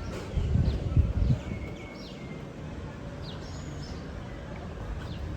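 Outdoor street ambience with small birds chirping repeatedly in short, falling notes. A brief low rumble near the start is the loudest sound.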